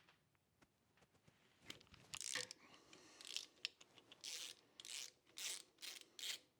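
Hand ratchet on a long extension backing out axle bolts: a run of short ratcheting strokes, about two a second, starting about two seconds in.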